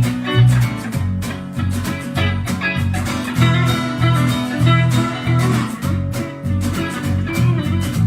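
Live band playing the instrumental part of a song before the vocals come in: guitars over a bass line with a steady beat.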